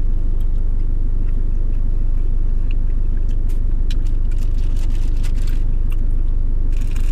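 Car engine idling, a steady low hum heard inside the cabin, with a plastic bag crinkling lightly now and then.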